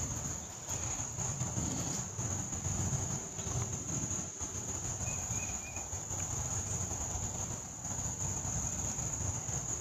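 Insects trilling steadily in one continuous high-pitched tone, over a low, uneven rumble.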